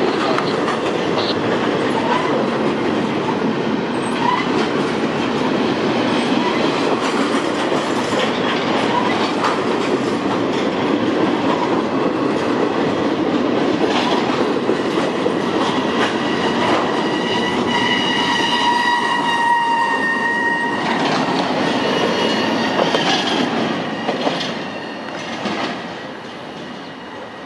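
Double-stack container well cars of a CSX intermodal freight train rolling past, the wheels clattering and clicking over the rail joints. A high, steady squeal rises over the rumble about two-thirds of the way through, and the sound drops away near the end as the last car passes.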